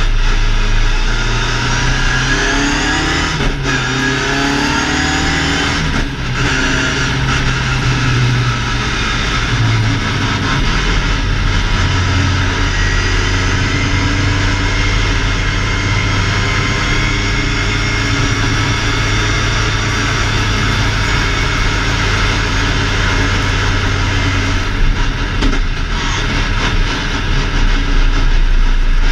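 BMW 2002 ti's four-cylinder engine at racing speed, heard from inside the car: it revs up with short breaks about three and a half and six seconds in, as at gear changes, then holds a steady high note before changing again near the end.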